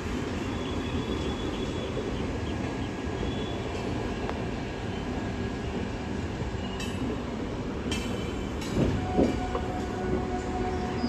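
Steady rumble of a train running on rails, with a few sharp clicks of wheels over rail joints. About nine seconds in there are two louder knocks, and a steady higher tone joins just before them.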